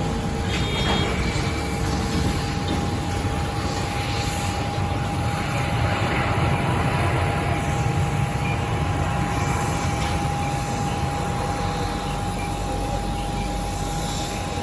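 Airbus A320neo airliner running on the ground: a steady deep rumble under a constant whine.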